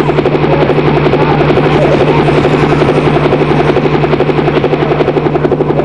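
Helicopter rotor chopping with a fast, even beat over a steady low hum.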